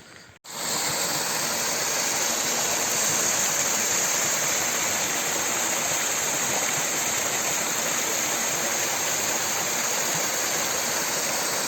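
Waterfall: a steady, loud rush of falling water that starts abruptly after a cut about half a second in.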